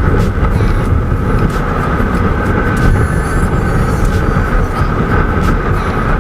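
Wind buffeting the microphone on a moving motorcycle at highway speed, a loud steady rumble with an even engine drone underneath.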